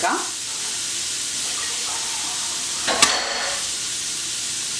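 Grated beetroot sizzling steadily as it fries in a pan, with one sharp click about three seconds in.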